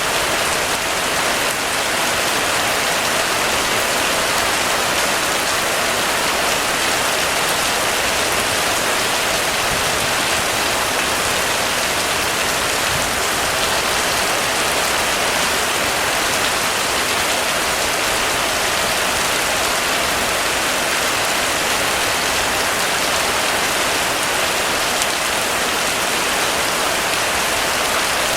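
Heavy rain pouring steadily, a dense even hiss of drops on a surface with no thunder.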